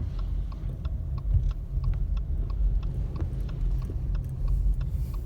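Car driving, heard from inside the cabin: a steady low road and engine rumble, with many faint short ticks scattered through it.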